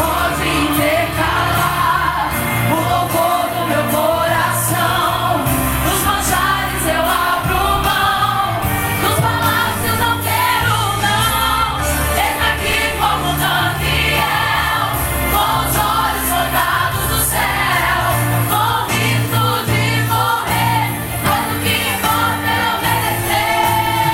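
Gospel worship music: a group of voices singing over a band with a steady bass line and drums.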